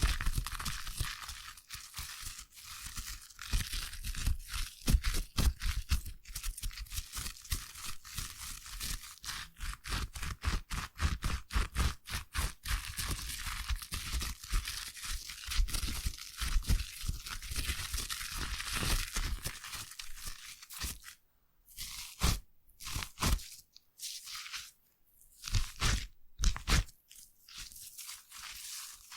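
Foam lather crackling and squishing close to the microphone, a dense run of tiny pops. After about 21 seconds it breaks into separate bursts with short silences between them.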